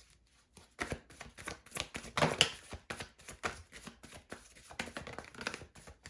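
A deck of tarot cards being shuffled and handled by hand: an irregular run of quick card flicks, riffles and taps.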